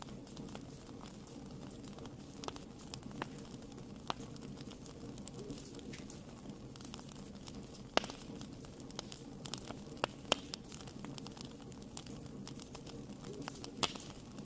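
Wood fire burning in a fireplace: a steady low rumble under irregular sharp crackles and pops, a few louder pops about 8, 10 and 14 seconds in.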